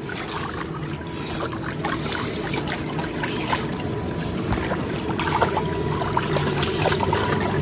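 Water running and splashing steadily, with scattered small taps and clicks and a low steady hum underneath.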